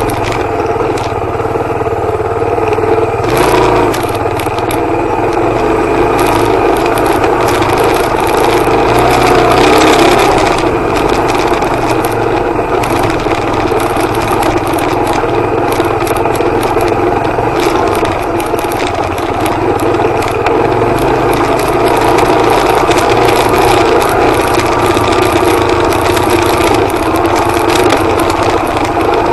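Suzuki DR250R's single-cylinder four-stroke engine running steadily as the trail bike rides a rough dirt track, with its pitch lifting briefly about ten seconds in. Frequent short rattles and knocks sound over the engine as the bike goes over the bumps.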